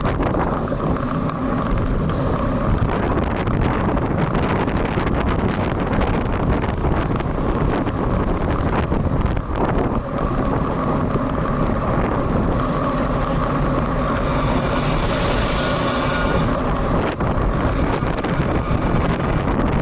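Strong wind buffeting the built-in microphone of a Sony FDR-X3000 action camera mounted on a moving road bike, a steady rushing noise with road rumble underneath. A brighter hiss swells for a couple of seconds near the end.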